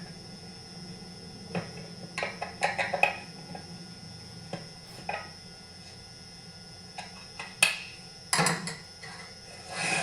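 Scattered metal clicks and clinks of hand tools on a chainsaw's starter housing as its screws are tightened, some in quick clusters of three or four, with a longer rattle a little before the end.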